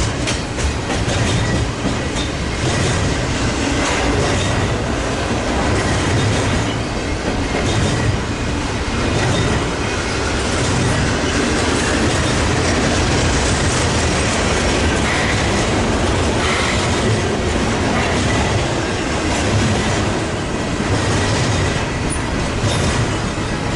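Long intermodal freight train's cars rolling steadily past, with wheels rumbling and clattering over the rail joints and a thin, steady wheel squeal.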